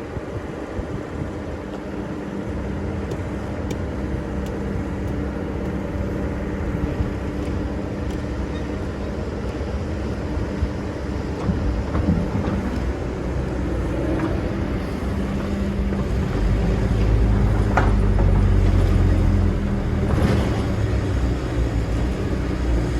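Excavator's diesel engine running steadily under working load. It swells louder and deeper for a few seconds past the middle, with a few short knocks along the way.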